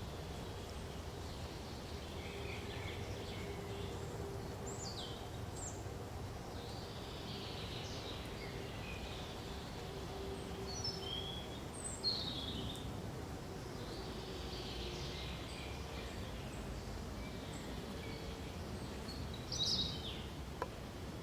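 Forest ambience: several songbirds chirping and calling on and off, short sliding notes, with one louder call about twelve seconds in and another near the end, over a steady low background rush.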